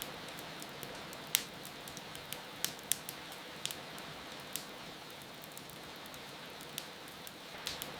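Wood fire crackling, with irregular sharp pops, over a steady hiss of rain.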